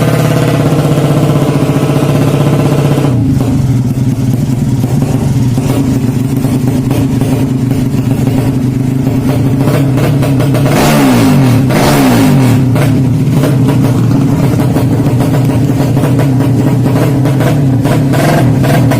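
A 200cc bored-out Yamaha Jupiter drag bike engine running loud and steady. About 11 seconds in, its pitch rises and falls in quick blips of the throttle.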